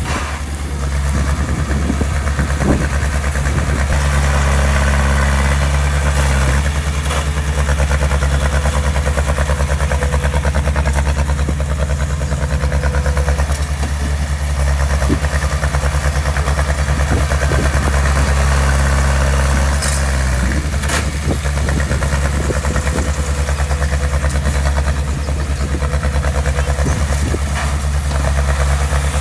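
Heavy construction machine's diesel engine running steadily close by, with a slight shift in pitch about a second in and again after six seconds. A few short knocks sound over it, the clearest about 21 seconds in.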